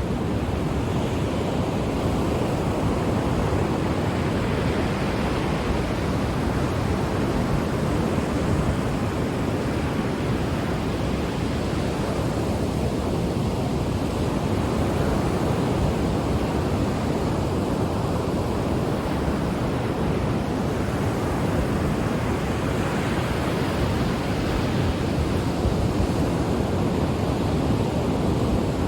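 Ocean surf: a steady wash of breaking waves on the shore, rising and falling gently every few seconds.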